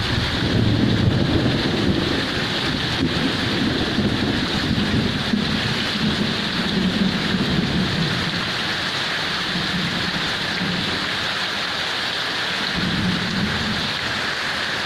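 Heavy rain falling steadily, with a low rumble of thunder that comes in right at the start and swells again twice.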